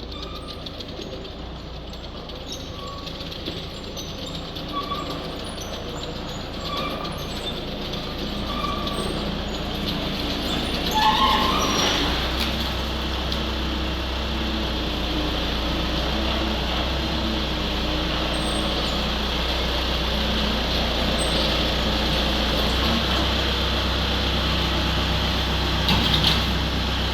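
Skid steer engine running steadily, growing louder through the first half and stepping up in level about twelve seconds in, with a brief louder surge near the end.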